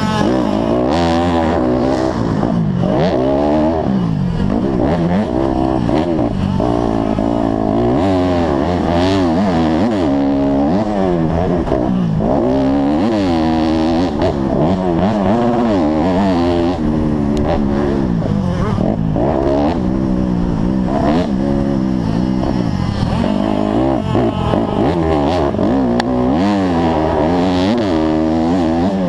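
Honda CRF150R four-stroke single-cylinder motocross bike engine racing, revving up and falling back again and again every second or two with each throttle opening and roll-off.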